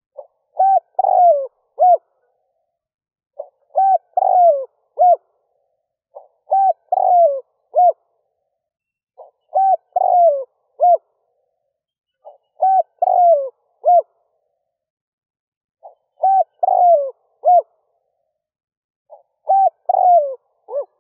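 Spotted dove cooing, its multi-note coo phrase repeated seven times at roughly three-second intervals, with silence between phrases.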